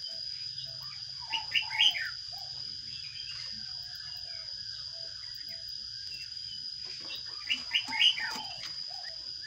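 Sparrows chirping at a nest box: two short bursts of quick, falling chirps, one about a second and a half in and one near the end, with softer chirping between.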